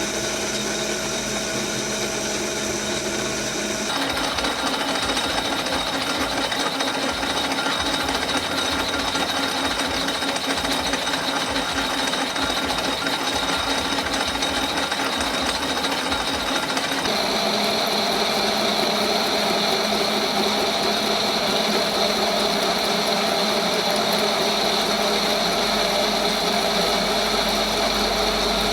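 Metal lathe running with a cut in progress: a steady machine hum with a fixed whine and a busy rattle of cutting. The sound changes abruptly twice, about four seconds in and again past the middle.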